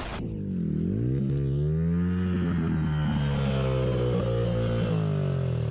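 Motorcycle engine under way. Its note drops about a second in, climbs again and holds steady, then eases off slightly near the end.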